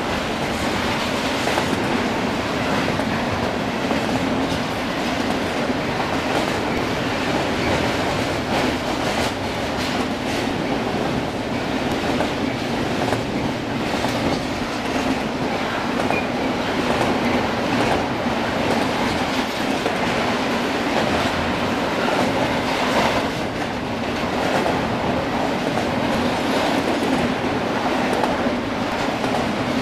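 BNSF double-stack intermodal freight train's cars rolling past, a steady rumble and clatter of wheels on the rails with faint repeated clicks.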